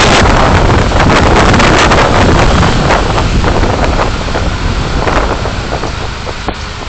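Loud rushing wind and road noise picked up by a driving vehicle's dashcam microphone, easing a little near the end.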